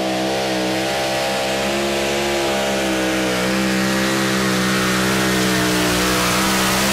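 Two-wheel-drive pulling tractor's engine held at full throttle under load as it drags the weight sledge, running at a nearly steady high pitch that sags slightly toward the end.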